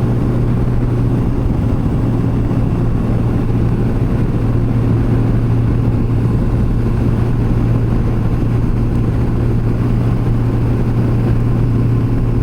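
Yamaha FJR1300's inline-four engine running at a steady highway cruise, a constant low drone with wind rush over it.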